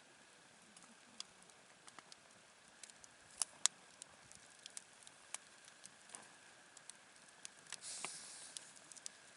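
Campfire burning quietly, with scattered crackles and pops from the wood, two sharper pops about three and a half seconds in, and a short hiss about eight seconds in.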